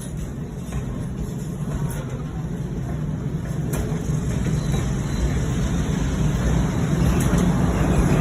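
Moving train: a steady, low rumble that grows gradually louder.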